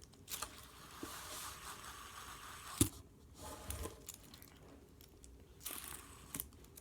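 Quiet rustling and scraping handling noise, with a sharp click about three seconds in and two more clicks near the end.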